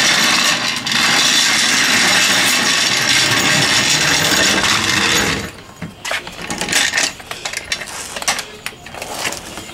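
Tools and metal equipment being handled: a loud steady noise for about five seconds, then scattered clicks and clanks of metal.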